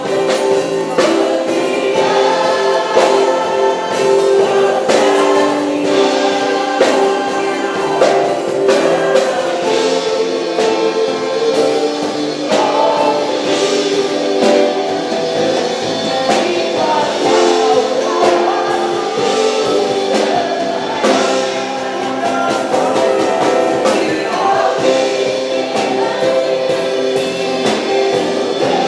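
Christian worship song sung by many voices together, with instrumental accompaniment and a steady beat.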